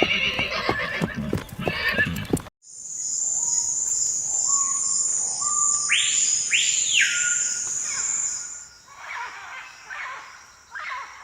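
A horse neighing over clip-clopping hooves, cut off abruptly about two and a half seconds in. Then a nature recording: a steady high-pitched buzz, with birds whistling two sweeping notes midway and then giving a series of short repeated calls.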